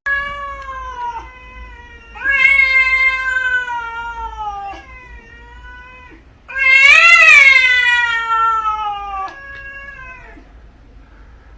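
A cat giving a run of long, drawn-out yowling meows, about five in a row, each sliding down in pitch. The loudest comes about seven seconds in and swells up and then down in pitch.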